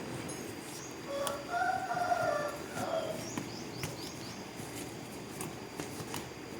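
A rooster crowing once, for about two seconds, starting about a second in. Small birds chirp briefly after it, with a few light clicks over a low background.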